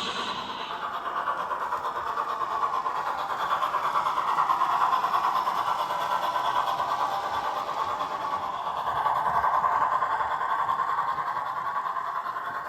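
O gauge model locomotive, a Dapol 14xx 0-4-2T converted to three-rail, running around a layout with a steady rumble of wheels and motor on the rails. The sound swells twice as it passes close by, then fades.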